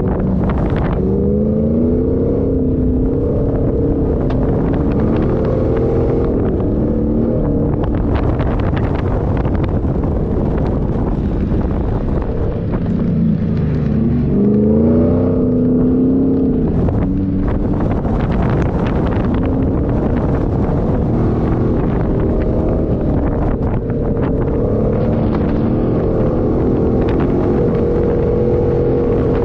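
A 4x4's engine driving on sand, its revs climbing about a second in and again about halfway through and then levelling off, over a steady rumble of tyres and wind. A few short knocks and rattles are heard in the middle.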